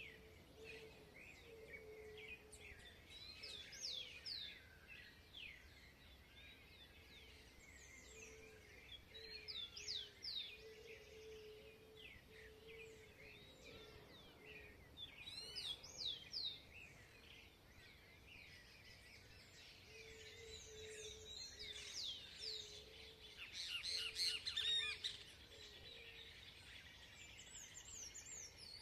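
Outdoor birdsong: several birds chirping and singing at once in quick sweeping notes, with a busier, louder stretch of song near the end. A low note repeats steadily underneath.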